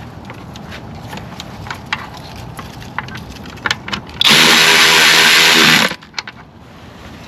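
A cordless power tool spins a plenum bolt in for about a second and a half with a steady motor whine, about four seconds in. Light metallic clicks and taps of a socket and tools on the engine come before and after it.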